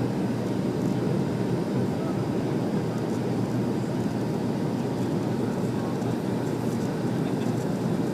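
Jet airliner cabin noise during takeoff: the engines and rushing air make a steady, low rumble.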